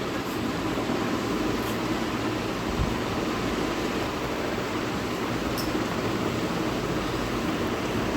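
Steady rushing noise of air, like a running fan, with a few faint clicks.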